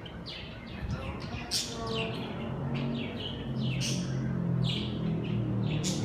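A bird chirping over and over in short, sharp chirps, several a second, with a low hum underneath that grows louder in the second half.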